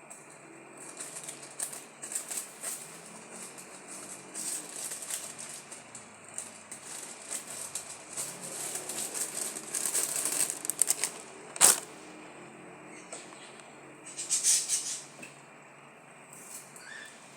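Plastic wrapping being handled: irregular rustling and crinkling that comes and goes, louder about ten seconds in and again near fifteen, with one sharp click just before twelve seconds.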